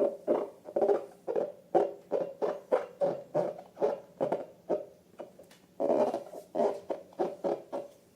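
A rapid series of short squeaky squelches, about two to three a second, with a brief pause about five seconds in.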